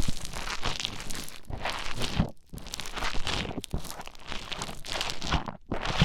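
Play foam being mixed and squished: dense crunchy crackling in uneven strokes with sharp little clicks, pausing briefly a little over two seconds in and again near the end.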